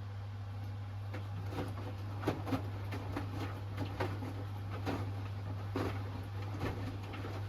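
Hoover Axi 10 kg front-loading washing machine drum turning mid-cycle: laundry and water slosh and tumble with irregular soft knocks over a steady low hum.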